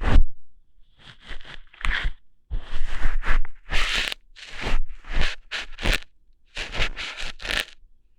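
ASMR ear-hair plucking sounds: close-miked crackling and scraping at the microphone's ear in a run of short irregular bursts, about a dozen in eight seconds, some with a low thump.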